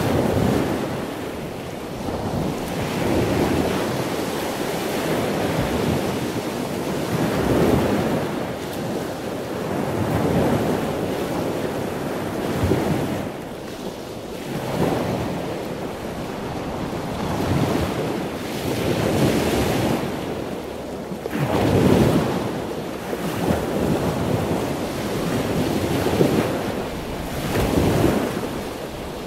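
Ocean waves breaking and washing, the noise swelling and falling in surges every two to three seconds.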